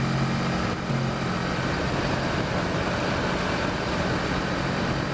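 Kawasaki Versys motorcycle engine running steadily at cruising speed, with a constant rush of wind and road noise.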